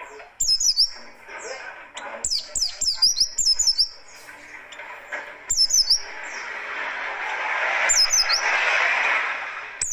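Oriental white-eye (pleci buxtoni) singing in repeated bursts of fast, high-pitched, rough chirping phrases. A rising hiss of background noise grows under the song in the second half.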